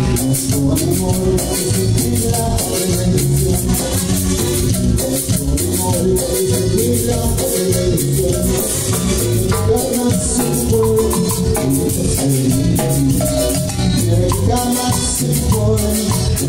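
Live band playing an instrumental passage of Latin dance music, with a steady percussion beat under a melodic line and no singing.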